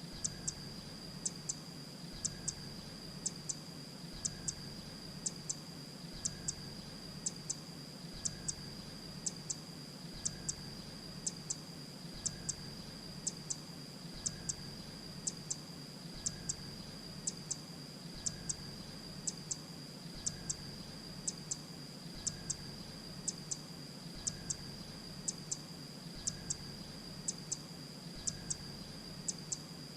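Grey-breasted prinia calling: short, high double notes repeated evenly about once a second, over a steady high-pitched whine and a low hum.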